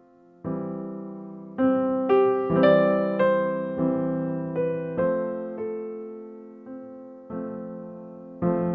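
Background piano music: slow, gentle notes and chords, each struck sharply and left to fade.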